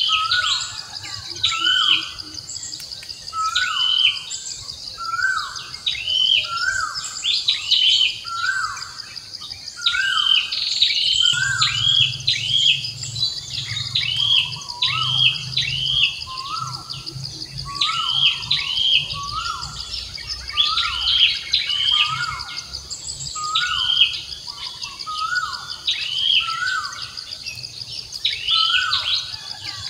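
Birds chirping over and over: short falling chirps about once a second, with higher chirps above them, over a steady high insect buzz.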